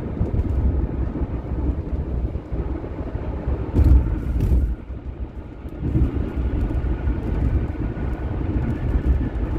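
Steady low road and engine rumble heard from inside a moving vehicle, with a brief louder thump about four seconds in and a short dip in level just after.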